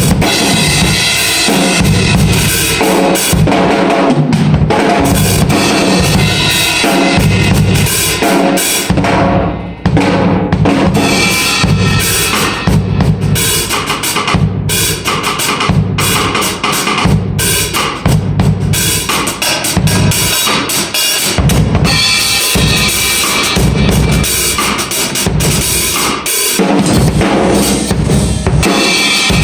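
Drum kit played continuously, with bass drum, snare and cymbals, and a brief drop-off a little under ten seconds in.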